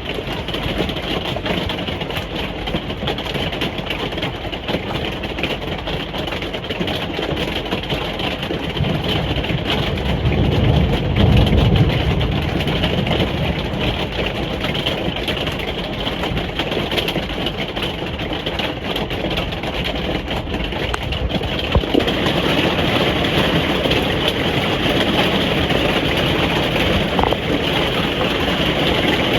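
Rain falling on a caravan roof, heard from inside the caravan, as a steady hiss. A low rumble swells and fades about ten seconds in.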